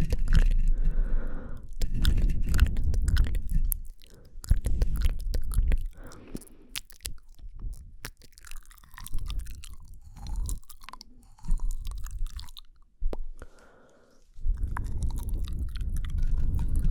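Close-miked ASMR mouth sounds: wet clicks, smacks and tongue noises right against the microphone. They come thick and loud for the first few seconds and again near the end, with sparser, quieter clicks in between.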